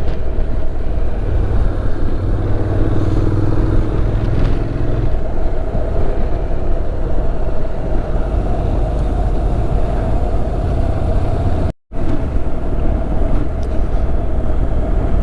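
Motorcycle running at road speed, its engine note under a heavy, steady rush of wind on the on-bike microphone, with a slightly rising engine tone for a few seconds early on. The sound drops out completely for a moment about twelve seconds in.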